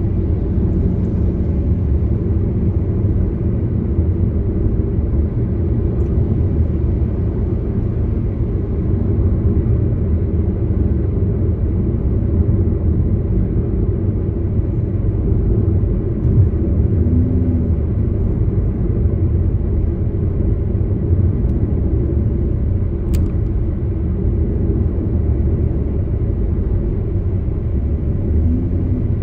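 Steady low rumble of a car driving along: engine and tyre noise on the road.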